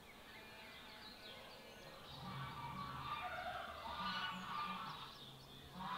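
Birds chirping, getting louder about two seconds in.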